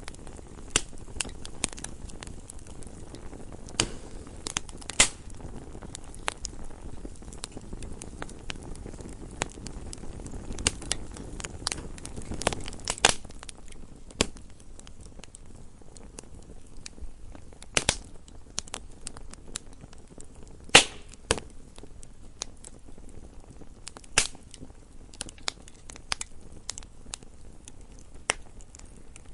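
Wood fire burning in a fireplace: irregular crackling and sharp pops over a low steady rumble of the flames, with a few louder snaps scattered through.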